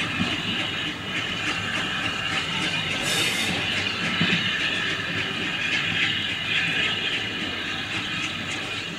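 Coaches of a steam-hauled train pulling away from the platform, their wheels running over the rails with a steady rumble and clatter. A brief high hiss comes about three seconds in.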